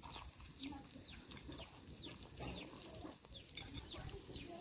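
Birds chirping: many short high calls, each sliding down in pitch, repeated throughout.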